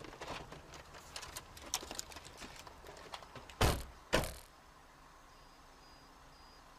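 Handling and rustling noises, then two heavy thumps about half a second apart, followed by a faint row of short high beeps.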